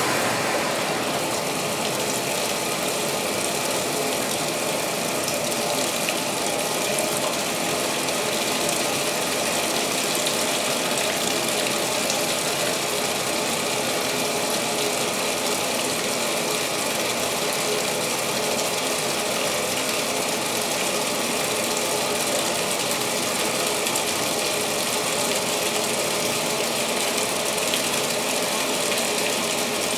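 2016 Speed Queen top-load washer filling for the main wash: a steady rush of water through the inlet valve into the tub.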